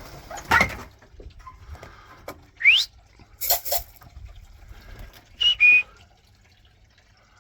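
A person whistling to call young pigeons down to the loft: one rising whistle a little under three seconds in, then a short two-note whistle stepping down a little after five seconds. Two short sharp noises come between the whistles.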